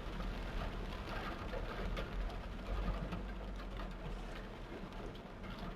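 Torrential rain falling: a steady hiss of water with scattered drop impacts.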